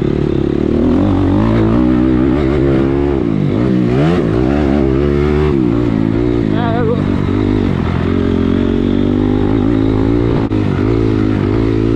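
Dirt bike engine revving up and down as it is ridden round a motocross track, its pitch rising and falling with the throttle, with sharp drops in revs about four and five and a half seconds in.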